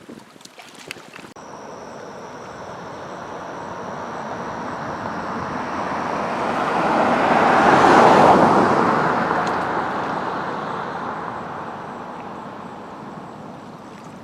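A car passing by: a rush of tyre and engine noise that swells for several seconds, peaks about halfway through, then fades away.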